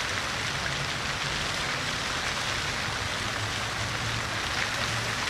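Water of a city fountain splashing and falling steadily, with a faint low hum underneath.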